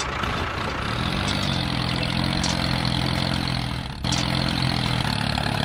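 Mini tractor engine running steadily, a low drone that dips briefly about four seconds in, then carries on.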